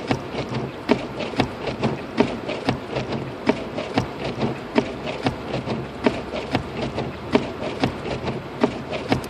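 Inside the cabin of a Lexus IS250 AWD driving on a snow-covered road: a steady low road and engine hum with frequent irregular clicks and knocks, about three or four a second.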